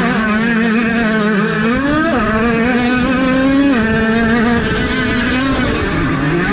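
Several 50cc two-stroke youth motocross bikes running together, their engine notes rising and falling as the throttles open and close.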